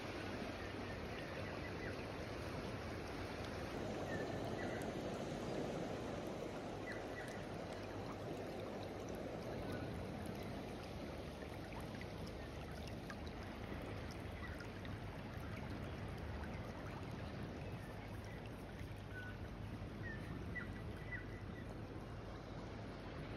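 Steady rush of running water, with a few faint short high chirps scattered through it.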